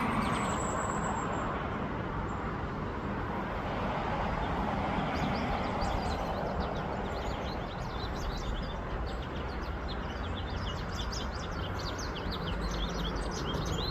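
Small birds chirping in quick, repeated high notes, thickening from about four seconds in, over a steady background rumble of outdoor noise.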